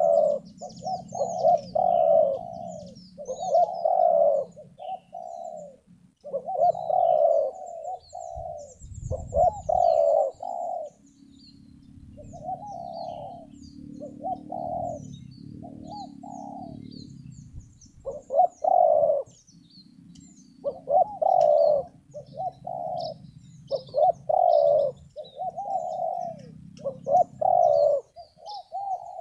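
Spotted doves (terkukur) cooing over and over in short phrases, with small birds chirping high above. A low steady hum runs underneath for much of the time.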